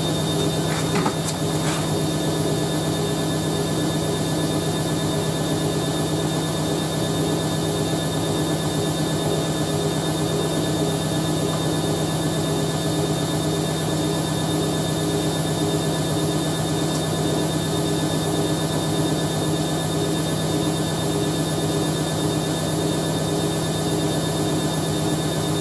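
Hoover A3060 Electronic 1100 washing machine in a spin between rinses, its motor and drum running at a steady speed with an even hum. The spin is smooth.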